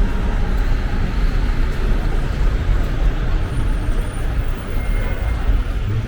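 Road vehicle on the move: steady engine and road noise with a heavy low rumble.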